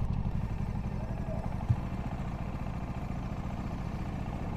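Bajaj Dominar 400's single-cylinder engine running at low revs as the motorcycle rolls slowly to a stop, easing off over the first second and then settling to a steady, evenly pulsing idle.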